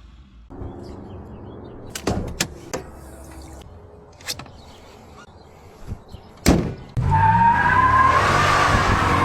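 A vehicle engine running low with a few sharp knocks, then about seven seconds in a loud engine revs hard and tyres squeal steadily, as in a burnout.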